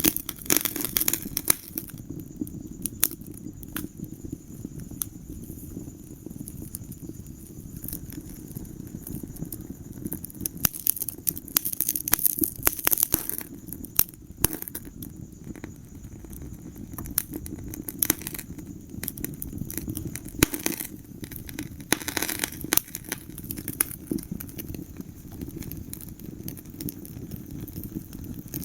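Wood fire burning in a fireplace, crackling with irregular sharp pops and snaps, some in quick clusters, over a steady low rumble of the flames.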